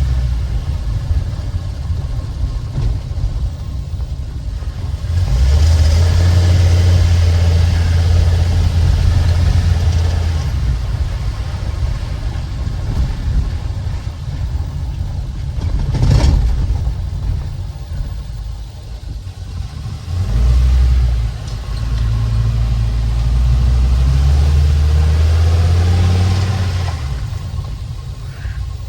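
Ford 6.8L V10 gasoline engine of an E-450 ambulance running, its low hum growing louder and heavier twice for several seconds as it pulls, with one sharp thump about halfway through. The engine has just had the ignition coils of cylinders 4 and 5 swapped to trace a misfire, and the check engine light does not come back.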